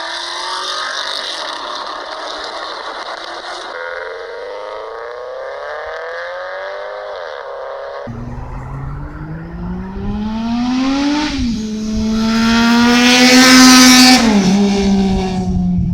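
Engine exhaust revving in several spliced clips, with abrupt cuts about 4 and 8 seconds in. The revs rise and fall, dip sharply after about 11 seconds, then climb to the loudest and highest revving near the end before dropping back.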